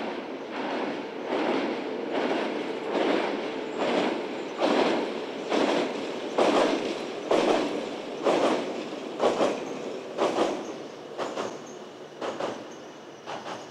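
Nagano Electric Railway train crossing a steel truss bridge: wheels clattering over the rail joints at about one beat a second, loudest midway and fading as the train moves off.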